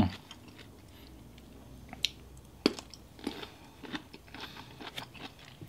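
Close-miked chewing of a piece of boiled bamboo shoot: scattered crisp crunches and mouth clicks, spaced about half a second to a second apart from about two seconds in.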